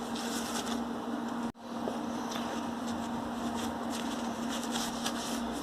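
A steady low hum under an even hiss, broken by a sudden brief cut in the sound about a second and a half in.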